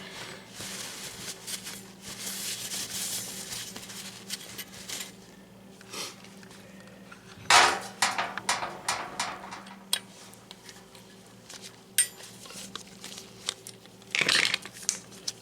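Metal tools and oil-burner parts clinking and rattling as they are handled, with scattered sharp knocks, the loudest about seven and a half seconds in, over a faint steady hum.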